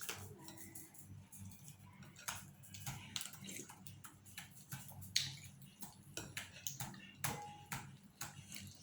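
Soft, irregular clicks and taps of someone eating noodle soup: utensils against a bowl and mouth sounds, over a low steady hum.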